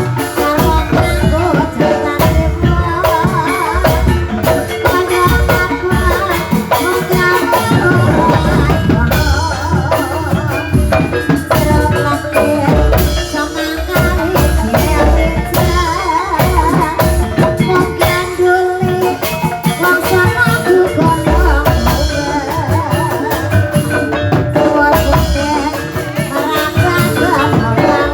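Ebeg horse-dance accompaniment music played live: hand drums keeping a steady busy rhythm under tuned percussion, with a wavering melodic line that may be a singer.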